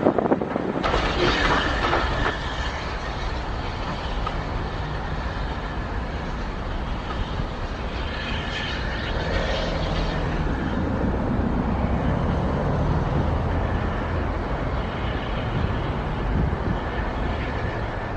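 Steam train hauled by the Bagnall tank engine 'Victor', No. 2996, running along the line with a steady rumble from the engine and carriages on the rails.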